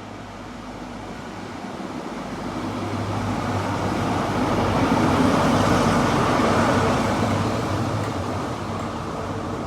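A diesel train's engines humming, growing steadily louder to a peak about halfway through, then easing off.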